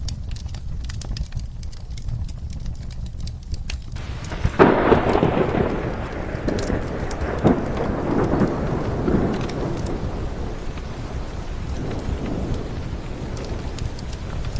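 Rain with a crackling wood fire, sharp pops scattered throughout. About four and a half seconds in, a thunderclap breaks in suddenly and rolls on, rumbling away over the next several seconds.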